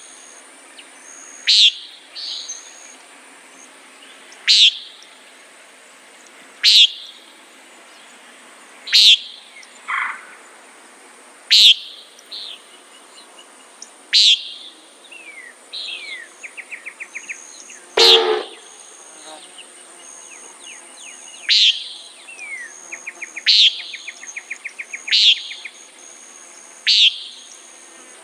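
Common nighthawk giving its short peent call over and over, about every two seconds, some ten calls in all. Under it runs a steady high insect tone, with fainter trills from other birds and one louder burst about two-thirds of the way through.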